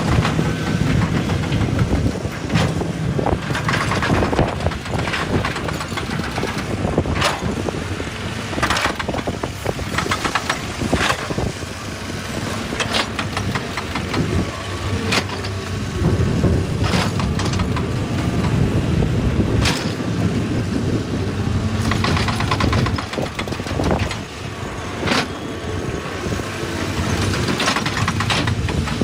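Excavator's diesel engine running steadily, with irregular sharp clanks and knocks throughout.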